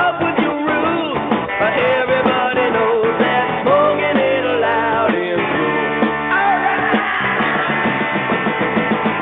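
Rock and roll music with electric guitar, heard through a narrow AM-radio-style filter that cuts off everything above about 4 kHz, so it sounds thin and tinny.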